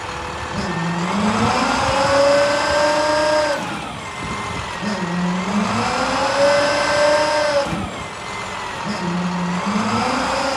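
MaxxForce DT diesel engine of a utility truck revving up, holding the higher speed for about two seconds and dropping back toward idle. This happens twice, and it revs up a third time near the end.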